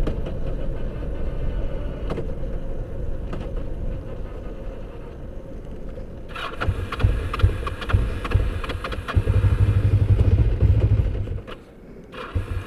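A motorcycle engine that has lost its coolant, running poorly and not wanting to run. About six seconds in it gets much louder for around five seconds, then drops away sharply, with a brief louder burst near the end.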